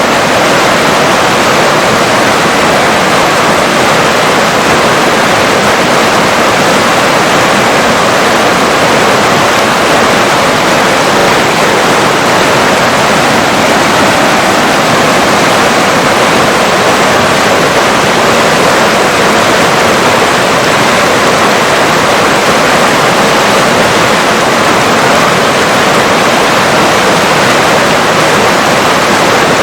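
River water rushing steadily, a loud, even hiss with no change.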